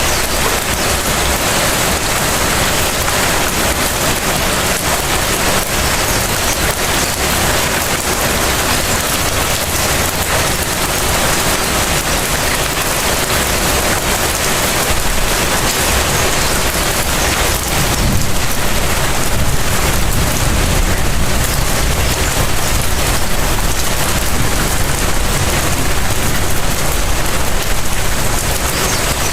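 Steady light rain falling on hard surfaces, an even hiss of many small drops. From about two-thirds of the way through, a low rumble grows beneath it and the whole sound gets a little louder.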